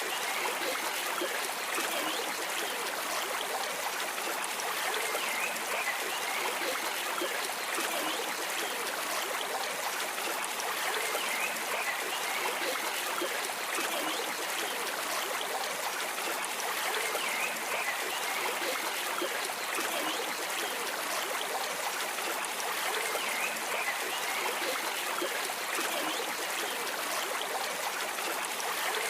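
Stream water flowing and trickling steadily, an even rushing sound with no breaks.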